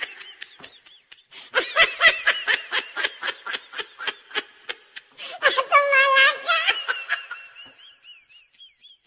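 A single high-pitched laugh added as a comedy sound effect after the punchline. It comes in quick giggling pulses, rises to a held squealing note midway, then trails off in thin, fading chirps.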